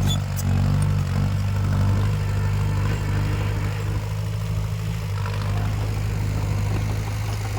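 Diesel engine of heavy earthmoving equipment running steadily at a constant low pitch.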